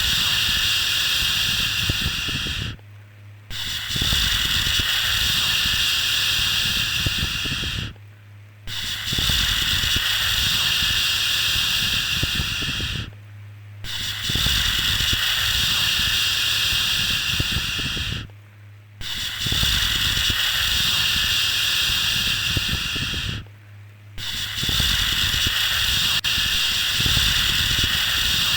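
A long, drawn-out 'shhh' shushing sound, repeated about every five seconds with a brief pause between each, over a steady low hum.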